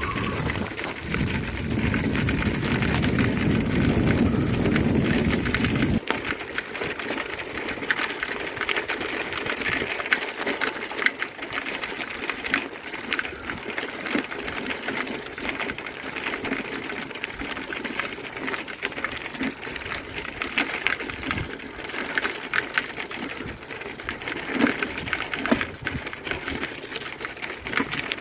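Bicycle on the move, with a rapid, steady clicking rattle throughout. A low rumble sits under it for the first six seconds and stops abruptly.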